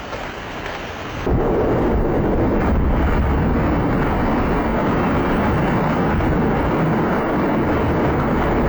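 A loud, dense rumbling noise that steps up suddenly about a second in and then holds steady.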